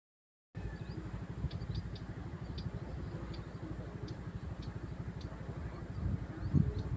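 Small engine running steadily with a fast, even low throb that swells briefly near the end, and faint short high chirps above it.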